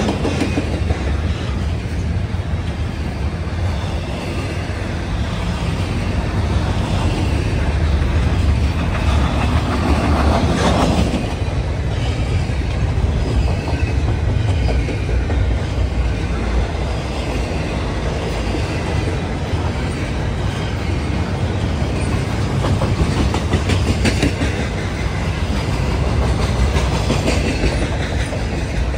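Long freight train rolling past: a steady rumble of steel wheels on rail with clickety-clack over the rail joints and occasional wheel squeal.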